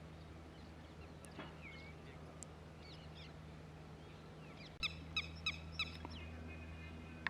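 Wild birds calling, with thin gliding chirps scattered through and, about five seconds in, one bird giving four loud, sharp calls in quick succession, over a steady low hum.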